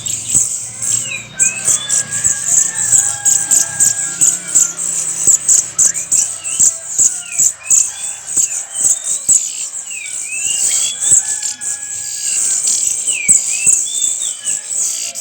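Many caged songbirds chirping and whistling, short gliding notes overlapping one another, over a constant high shrill buzz like crickets.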